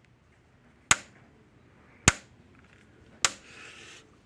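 American Farmworks 120 mile electric fence charger firing its output pulses: a sharp snap about every 1.2 seconds, four in all. The steady pulsing shows the repaired charger is working.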